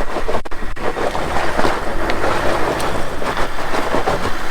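4x4 engine running steadily, with a dense rough crackling noise over it, during a strap recovery of a stuck vehicle.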